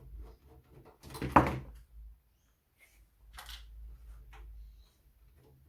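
Handling noises on a computer chassis while a stubborn, shallow-slotted screw is worked at: a loud clunk about a second in, with softer knocks and scrapes around it.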